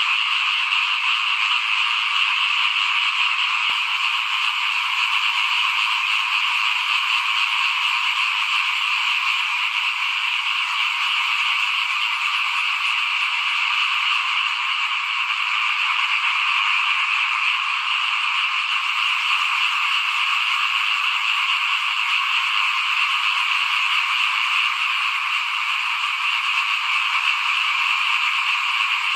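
A dense chorus of many small frogs calling at once, a steady unbroken din with no pauses or gaps.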